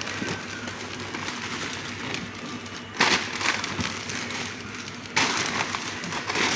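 Rustling and crinkling of packaging being handled, with louder bursts about three seconds and five seconds in.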